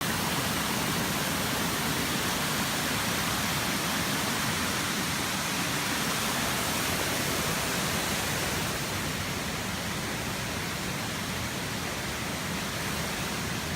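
Small waterfall rushing: a steady, even roar of falling water that eases off a little about nine seconds in.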